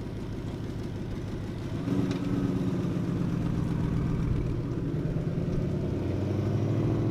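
A car engine idling with a rapid, uneven pulse, getting louder about two seconds in and then holding steady.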